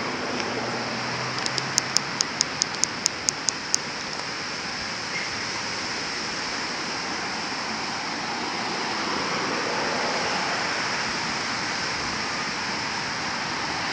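Steady wind rushing over the microphone. A couple of seconds in comes a quick run of about ten sharp high clicks, about four a second.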